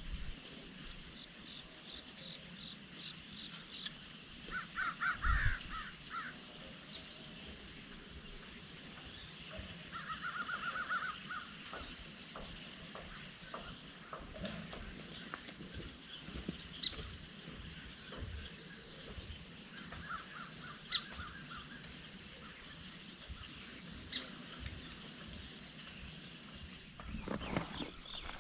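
Outdoor rural ambience: a bird calls in short series of harsh repeated notes three times, over a steady high hiss that swells and fades every few seconds, with scattered faint knocks.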